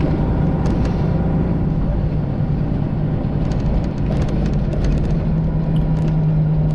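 Straight-piped 12.7-litre Detroit Diesel Series 60 in a Freightliner Classic XL semi, running steadily under load and heard from inside the cab as a constant low drone. A few light clicks and rattles come in around the middle.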